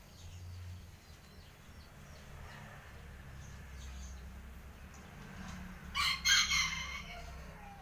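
A loud bird call, about a second long, comes about six seconds in over faint low background rumble.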